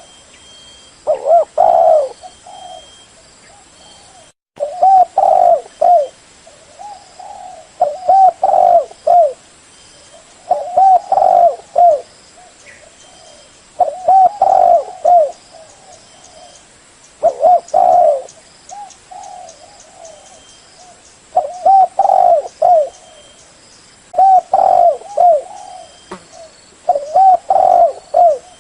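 Spotted dove cooing: short phrases of several low, hollow coos, a new phrase every three to four seconds.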